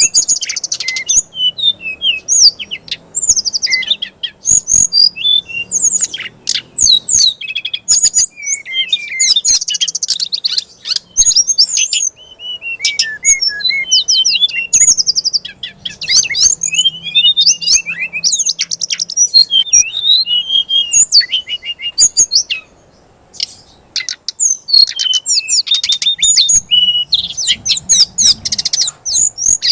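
A songbird sings its 'fighter' song non-stop: a rapid, varied run of sharp chirps, trills and sweeping whistles, with one short pause a little over two-thirds of the way through. Bird keepers play this aggressive song to provoke magpie-robins.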